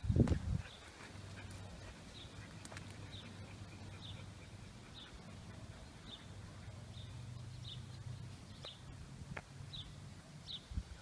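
A bird chirping over and over, one short high note about once a second, over a faint low steady hum. A dull thump right at the start is the loudest sound.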